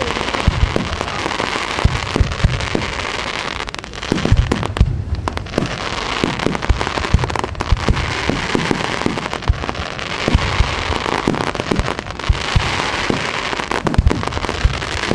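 Fireworks display: many aerial shells bursting in quick succession, low thuds mixed with dense, continuous crackling from crackling-star effects.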